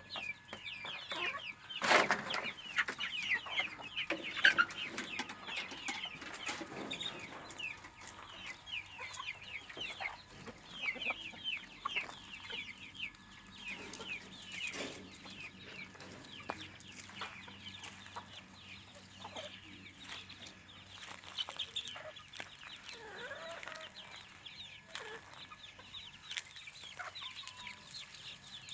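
Chickens clucking and calling continuously, with many short high calls throughout and a sharp knock about two seconds in.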